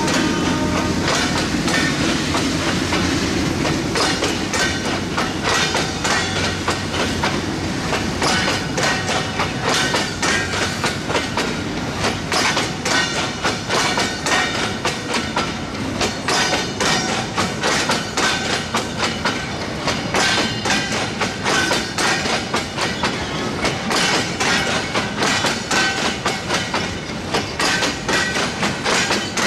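Bogie oil-tank wagons of a freight train rolling past close by: their wheels clack over rail joints in a continuous rapid rhythm over a steady rolling rumble.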